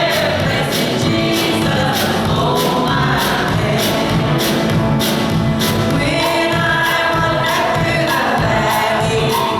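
Church congregation singing a gospel hymn together with instrumental accompaniment and a steady beat.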